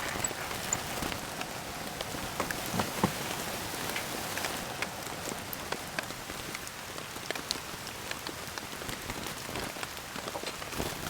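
Steady rain falling, with many scattered individual drops ticking sharply on a surface.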